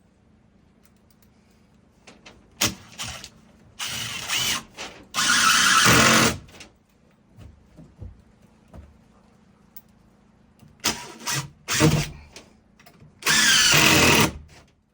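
A power drill runs in about six short bursts, the longest about a second and a half, its motor whining up and down in pitch.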